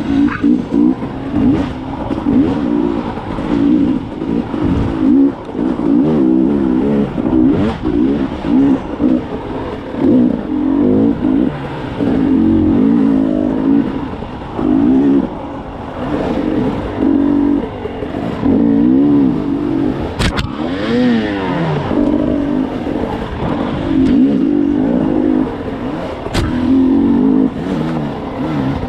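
Dirt bike engine revving up and down over and over as the throttle is worked on a twisty trail, its pitch rising and falling every second or two. There are a couple of sharp knocks about twenty and twenty-six seconds in.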